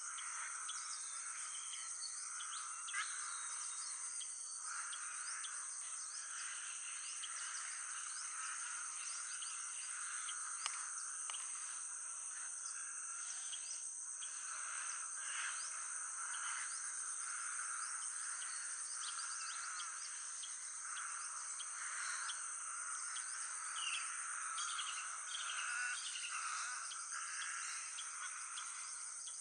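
Natural morning ambience: a steady high-pitched insect drone with many birds chirping and calling over it throughout.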